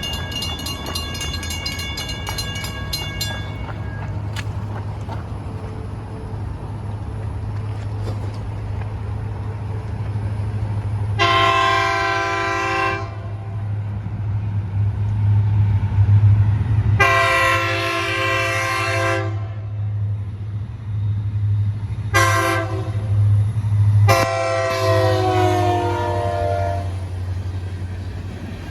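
Florida East Coast Railway diesel locomotive running past with a steady low rumble, sounding its multi-note air horn in four blasts, long, long, short, long: the standard grade-crossing signal. The last blast sags in pitch as it ends, and a rapidly repeating bell-like ringing is heard for the first few seconds.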